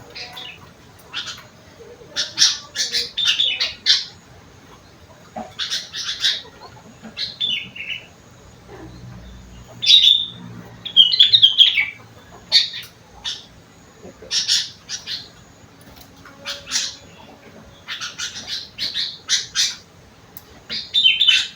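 Sooty-headed bulbul (kutilang) singing in short, loud bursts of quick chattering and whistled notes, a phrase every second or two. Its song is trained with imitated phrases of rengganis and cucak wilis (leafbird) songs.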